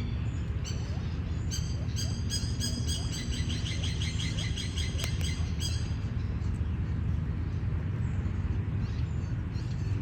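A bird giving a fast run of high chirping notes that quickens midway and stops about six seconds in, over a steady low background rumble.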